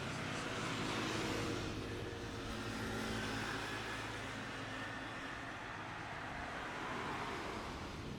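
A road vehicle passing by: a steady hum with a low engine drone, loudest in the first second and a half, then easing off slowly.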